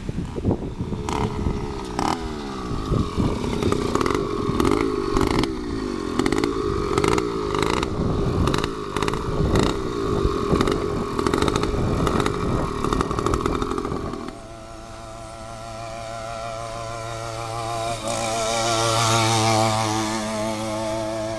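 Two-stroke engine of a motorized mountain bike running under way, with rattling knocks and rough buffeting for most of the time. About two-thirds in the rough noise drops away suddenly and the engine is heard as a steadier, wavering buzz that swells and falls off near the end.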